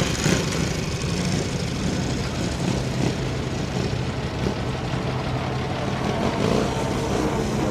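A vehicle engine running steadily at low revs, with an even, unchanging hum.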